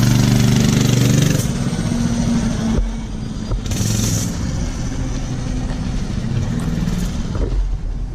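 Mega Moto 212cc minibike's single-cylinder four-stroke engine revving under throttle. It is loudest for the first second and a half, then runs steadier and quieter.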